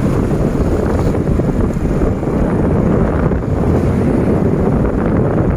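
Wind buffeting the microphone of a moving motorcycle: a steady, loud, low noise of rushing air.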